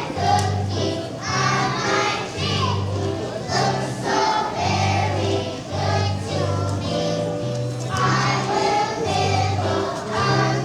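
Children's choir singing a song over instrumental accompaniment, with a low bass line stepping through held notes.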